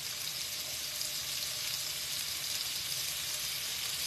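Sliced onions and tomato pieces sizzling steadily in oil on a hot stovetop griddle.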